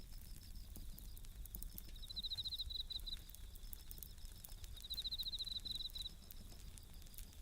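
Japanese bell crickets (suzumushi) chirping: two rapid pulsed trills, each about a second long, over a fainter steady insect ring. A campfire crackles softly with scattered small pops and a low rumble of burning.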